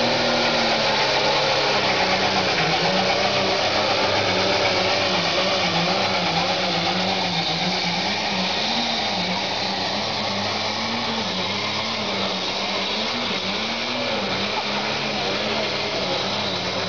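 Pro Stock pulling tractor's diesel engine running hard as it drags the weight sled down the track, its pitch wavering up and down.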